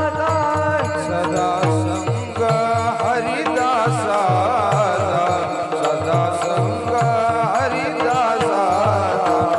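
Male devotional singing (bhajan) with an ornamented, wavering melody over a steady held note, accompanied by a hand drum whose resonant bass strokes slide down in pitch.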